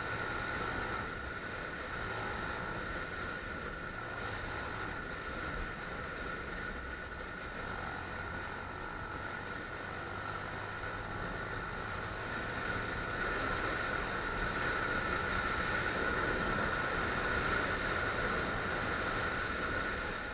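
Motorcycle riding on the road: steady engine and wind noise with a constant whine, growing somewhat louder in the second half.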